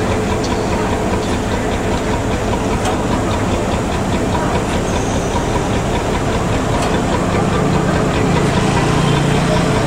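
Heavy truck's diesel engine running amid street traffic noise, a steady low engine drone that grows stronger in the last few seconds.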